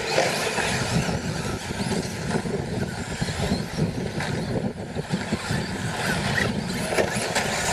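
Electric brushless RC short course trucks racing on a dirt track: motor whine and tyre noise mixed in a steady din.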